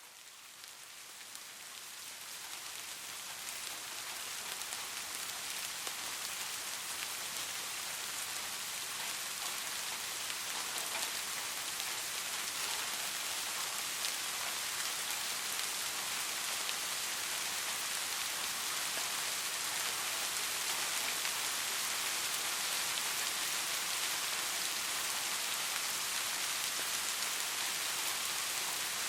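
Soft steady rain: a dense hiss with faint scattered drop ticks, swelling up from quiet over the first few seconds and then holding steady.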